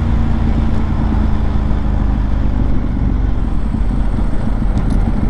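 Ducati 1098's L-twin engine running at low speed, heard as a steady low rumble; a steady engine tone in it fades out about halfway through.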